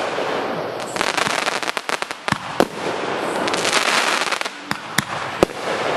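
Fireworks going off: a continuous hissing crackle with sharp bangs scattered through it, the loudest about two and a half seconds in and again near the end.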